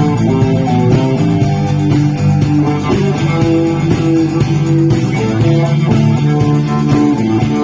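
Live rock band playing an instrumental with electric guitars and bass guitar at a steady beat.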